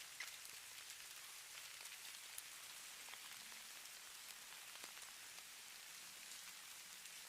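Faint, steady patter of falling snow: a soft high hiss with scattered light ticks of flakes landing.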